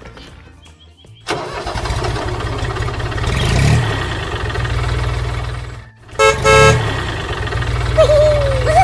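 A vehicle engine starts up abruptly about a second in and runs with a steady low throb. About six seconds in, a horn gives two short honks. Near the end comes a brief tone that slides up and down.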